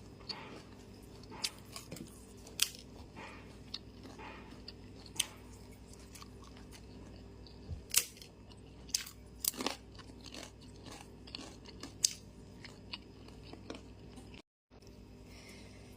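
Close-miked eating sounds: a person chewing and crunching tempeh, with scattered sharp clicks and smacks from the mouth. The sound cuts out briefly near the end.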